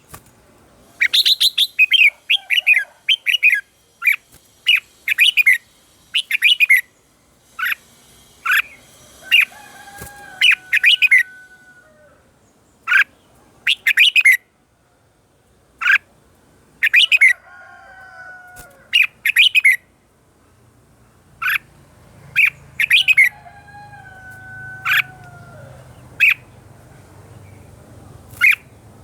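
Red-whiskered bulbul singing: short, bright, loud song phrases repeated again and again with brief pauses, and softer, lower drawn-out whistles between some of the phrases.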